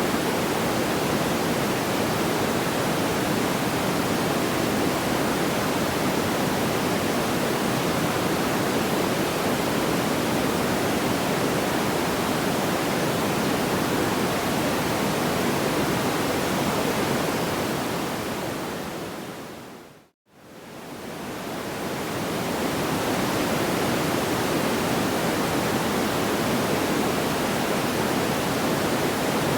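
Steady, even rushing noise like pink noise, with no audible crackles or pops. About twenty seconds in it fades out to a brief silence and fades back in, as at the seam of a looped track.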